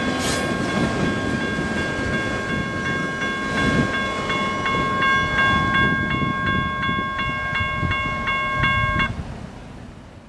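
Freight train's wheels rumbling and clacking on the rails as the last cars pass, with a railroad crossing bell ringing in rapid, regular strokes over it. The bell cuts off suddenly near the end, and the train sound fades away.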